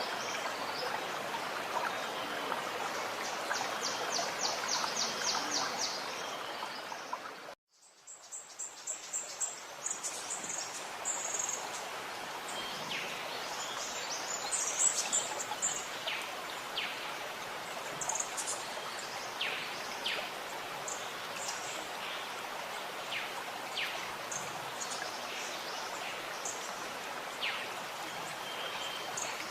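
Gurgling stream with birds calling over it: first a rapid, evenly spaced trill, then scattered short high chirps. About a quarter of the way in the whole sound drops to silence for a moment and comes back, like a splice between recordings.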